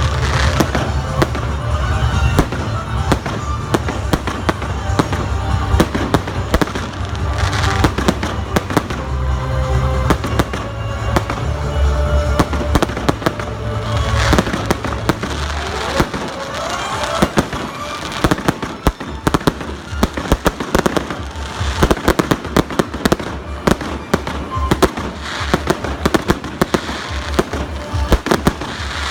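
Holiday fireworks salute going off: a dense run of bangs and crackling bursts, one after another, over music.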